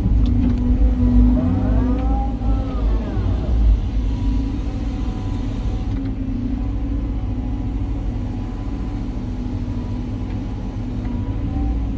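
Caterpillar 323 hydraulic excavator's diesel engine running under load, with a hydraulic whine that rises and falls as the boom and bucket move in the first few seconds, then a steadier stretch before the load builds again near the end.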